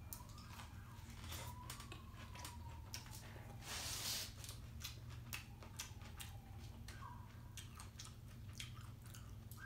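Cheeseburger being bitten and chewed close to the mouth: soft, wet mouth clicks and smacks, with a brief louder burst of noise about four seconds in.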